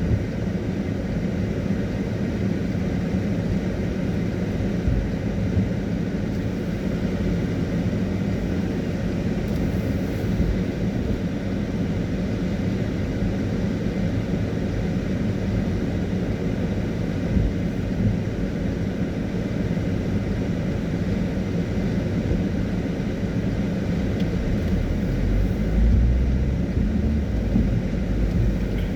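Car driving on a wet road: a steady low rumble of tyres and engine, with a brief louder low rumble near the end.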